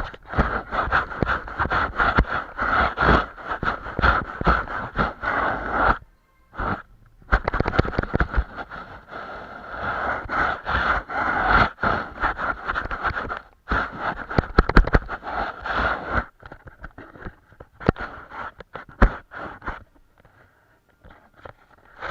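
Paintbrush scrubbing paint onto a canvas in runs of quick scratchy strokes, with short pauses, the strokes growing sparser near the end.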